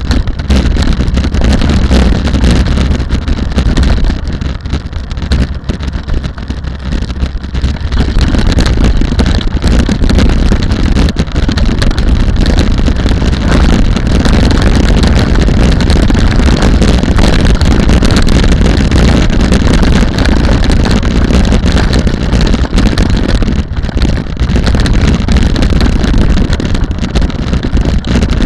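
Rally car engine and road noise, loud and continuous, with wind buffeting the microphone. The level eases for a few seconds about five seconds in.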